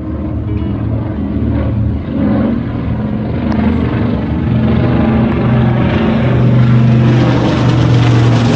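Aircraft flying overhead: a loud engine drone with steady low tones, growing louder over the few seconds as it nears.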